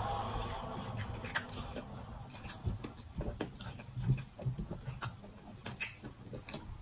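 Close-miked chewing of starch fufu and leafy soup: wet mouth clicks and lip smacks coming at irregular intervals.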